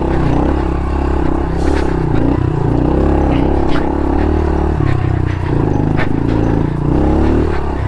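A 2023 Honda CRF110 pit bike's small single-cylinder four-stroke engine pulling at low revs, its pitch rising and falling with the throttle as it climbs through rocks. A few sharp knocks and clatters of the bike hitting rocks come through, about two and four and six seconds in.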